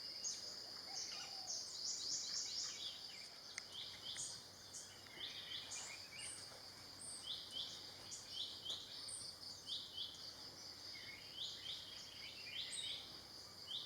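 Wild birds chirping over a steady, high insect drone: short downward-sliding chirps come in quick runs of several at a time, again and again.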